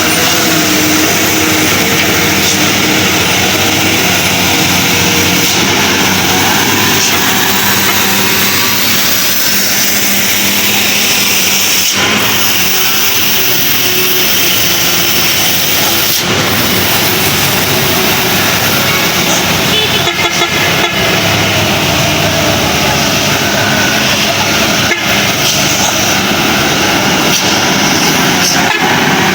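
Truck and road traffic running on a steep climb, with vehicle horns honking.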